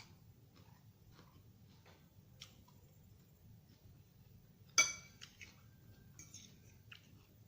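Cutlery clinking against a dish during a meal: faint small clicks and taps, then one sharp ringing clink about two-thirds of the way through.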